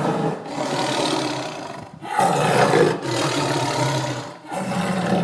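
Lion roaring: long, rough roars, about three in a row, each a couple of seconds long. It is a recorded lion-roar sound effect played for the toy lion.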